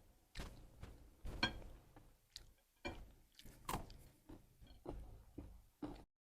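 Quiet close-up eating sounds: a person chewing with sharp mouth clicks and smacks about one to two a second. The sound cuts off suddenly near the end.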